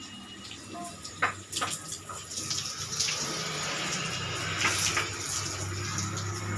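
Water from a hose spraying and splashing during a motorcycle wash, with a few sharp knocks in the first two seconds. The splashing thickens about three seconds in, and a steady low hum comes in a second later.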